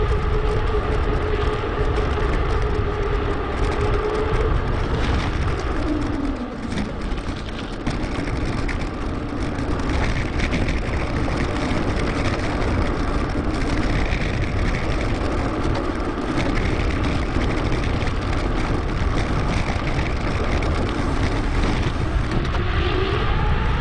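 Wind and tyre noise from a mountain bike ride picked up by a bike-mounted action camera, sped up to 2.5 times normal speed. A steady hum runs through it, dropping in pitch about five seconds in and rising again near the end.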